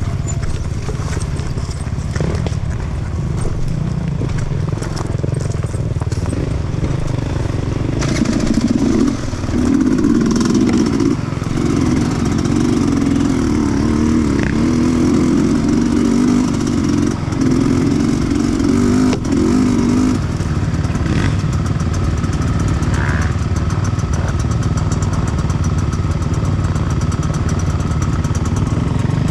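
Sherco 300 two-stroke enduro motorcycle engine running, with a louder, higher-pitched stretch from about a third of the way in to about two-thirds.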